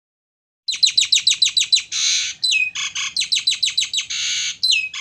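Starling (jalak) singing loudly. Its phrase is a fast run of short, high, falling whistled notes, then a harsh rasp and a down-slurred whistle, and the whole phrase is sung twice.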